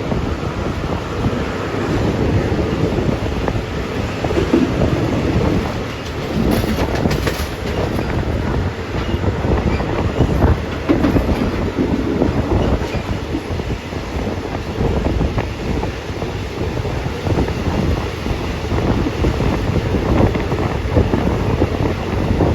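Steady rumbling vehicle noise with wind buffeting the microphone.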